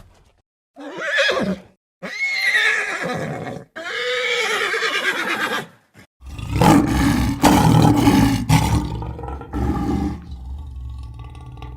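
Animal calls: three short calls that glide up and down in pitch, then from about halfway a longer, deep, rumbling call that fades toward the end.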